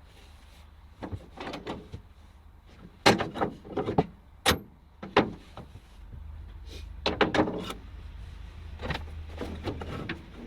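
A string of irregular knocks and clatters, the loudest about three, four and a half and seven seconds in, over a steady low hum that grows a little stronger about halfway through.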